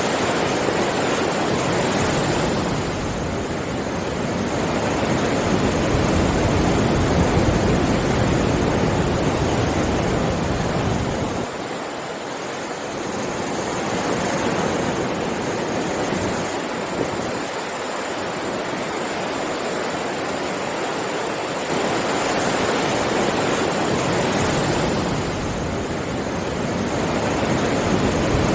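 Ocean waves breaking and washing on a shore, a continuous rushing that swells and eases as each wave comes in, with several surges over the span.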